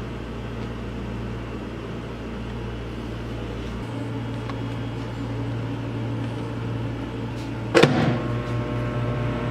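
Microwave oven running with a steady hum. About eight seconds in comes a sudden loud crack, after which the hum turns buzzier.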